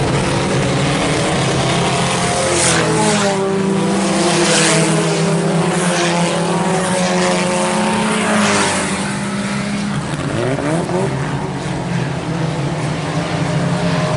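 IMCA Sport Compact race cars' four-cylinder engines running hard on a dirt oval, their pitch rising and falling as cars pass by.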